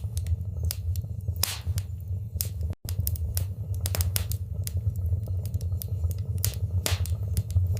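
Wood fire in a fireplace crackling, with irregular sharp pops and snaps over a steady low rumble of the flames. The sound cuts out for an instant about three seconds in.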